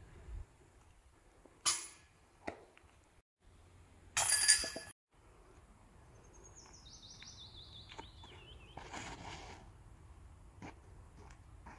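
A sharp knock, then about four seconds in a short loud burst of noise. After that a songbird sings a stepped series of notes falling in pitch for about two seconds, followed by a softer rustle.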